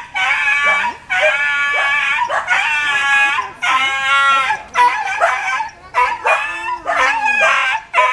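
An animal calling over and over: a series of drawn-out pitched cries, each around a second long, with short gaps between them.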